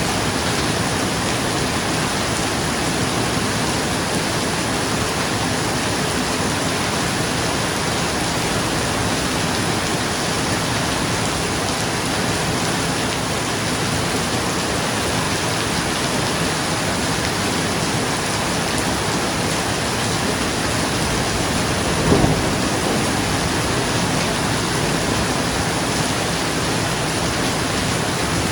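Steady, dense rain falling on a roof. About three quarters of the way in there is one brief, louder low thump.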